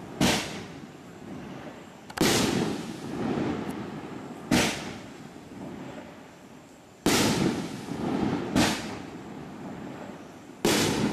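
A 9-shot consumer fireworks cake (T-Sky TS5905 Silver Spectacular) firing shells one after another, with launch thumps and aerial bursts. Six sharp bangs come roughly one to two and a half seconds apart, each trailing off in a fading rumble.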